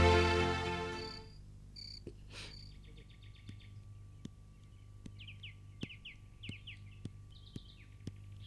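Background music fades out in the first second. Then small birds chirp, trill and whistle short falling notes, with soft regular ticks about two a second in the second half.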